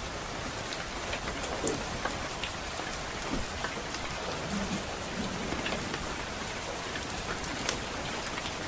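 Steady rain falling, an even hiss, with scattered sharp crackles and pops from a wood fire in a fireplace at irregular moments.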